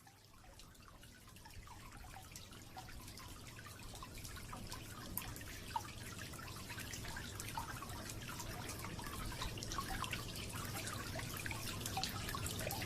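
Water fountain trickling, with many small drops and splashes, fading in gradually and growing slowly louder.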